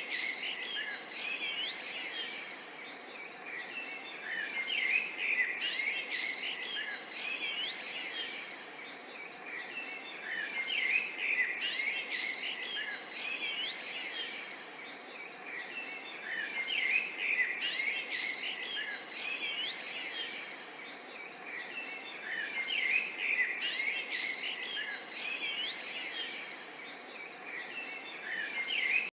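Many small birds chirping and twittering at once: short, quick calls with rapid up-and-down notes, overlapping without a break.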